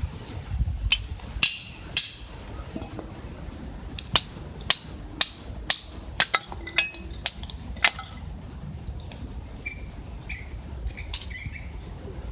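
Wood fire in a camp stove crackling, with irregular sharp pops about one or two a second and some louder snaps early on the first seconds. A few short bird chirps come near the end, over a low rumble of wind on the microphone.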